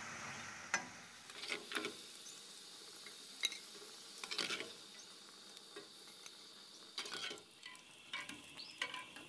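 Shredded potato straws deep-frying in hot oil with a steady sizzle, while a metal skimmer scrapes and clinks against the pan at irregular moments, several times, as the fried straws are scooped out.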